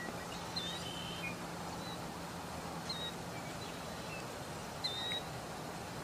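A few short, high bird calls, each a quick whistled note that dips and then levels off: about half a second in, again near three seconds, and near five seconds. They sound over a steady outdoor hiss.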